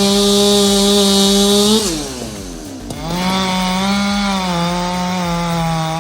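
Chainsaw run at full throttle in two bursts, a high steady engine whine with a pause of about a second between them.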